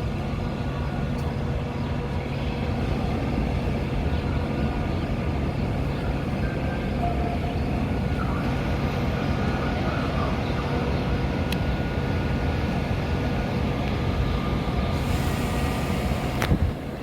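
Metra commuter train standing at the platform, its engine running with a steady low hum. Near the end comes a short hiss, then one sharp bang as the doors shut.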